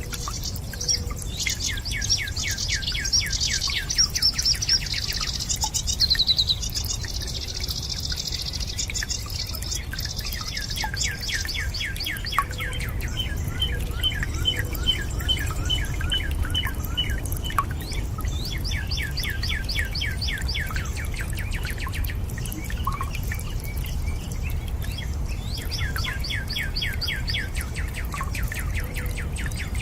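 Birds singing in bouts of fast, evenly repeated trills over a steady low rush of water, with scattered drips.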